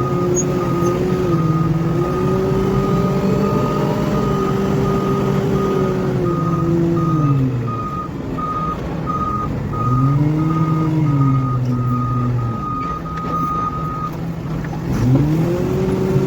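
Heavy diesel construction machine's engine revving up and easing off three times while its reversing alarm beeps steadily, about one and a half beeps a second. The beeping stops about two seconds before the end.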